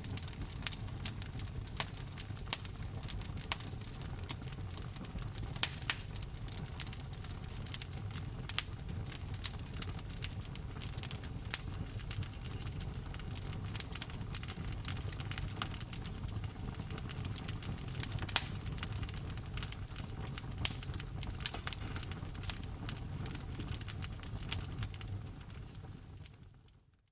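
Wood fire crackling, with many sharp pops and snaps of varying loudness over a steady low rumble; the sound fades out to silence near the end.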